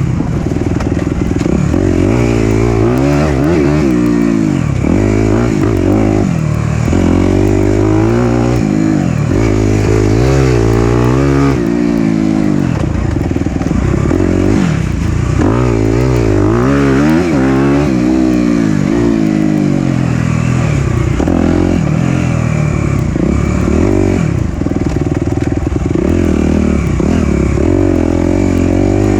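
Four-stroke single-cylinder dirt bike engine running hard on a trail ride, its pitch climbing and falling again and again as the rider opens and closes the throttle.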